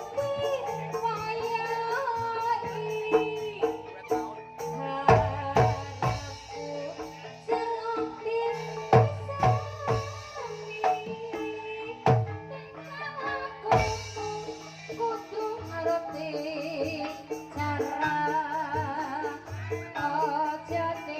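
Sinden-style female singing in long, wavering held notes over Javanese (Banyumasan) traditional music, with low drum strokes that come in heavily through the middle.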